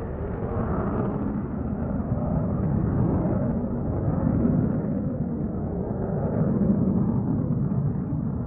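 Airliner cabin noise in flight: the steady low rumble of jet engines and airflow, swelling slightly a few times.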